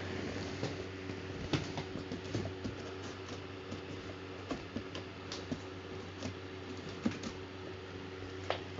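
Electric fan running with a steady hum, under scattered light clicks and taps that come irregularly, a few of them sharper and louder.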